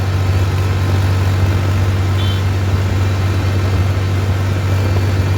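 Tractor's diesel engine running steadily, a loud low drone.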